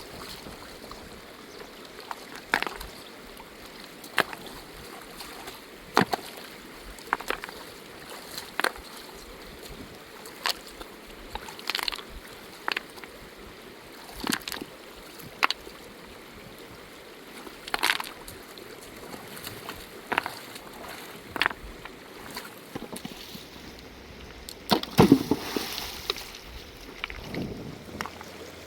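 Running river water as a steady rush, with sharp knocks or taps every second or two and a louder, longer burst of noise near the end.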